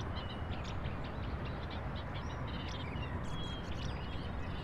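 Small birds chirping in quick, repeated short calls, with a short high whistle about three seconds in, over a steady outdoor background hiss.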